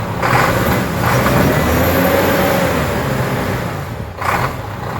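A Volvo machine's diesel engine running, revving up and back down across the middle. Two short bursts of noise come about a third of a second in and again about four seconds in.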